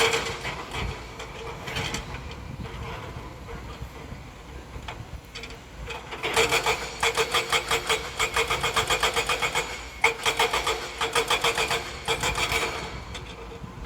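Heavy earthmoving machine running with a steady engine hum; about six seconds in a fast, even clanking of about five strokes a second starts and runs until near the end, like steel crawler tracks on the move.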